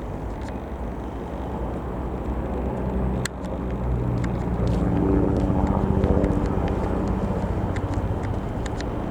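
Bell 505 Jet Ranger X helicopter running, a steady rumble with a hum that grows louder from about three seconds in and then holds. There is a sharp click about three seconds in.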